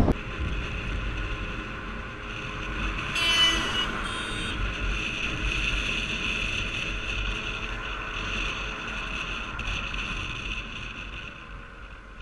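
A vehicle running with road and wind noise, heard from on board, steady and slowly fading near the end. A brief high-pitched sound comes about three seconds in.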